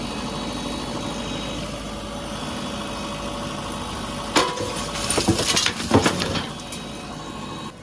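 A diesel machine engine running steadily. About four seconds in, a burst of loud clanking and clinking impacts lasts about two seconds.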